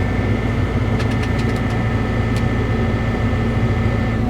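Cat 313 excavator's diesel engine running steadily at a constant speed, with a thin high whine over it and a few light clicks about a second in.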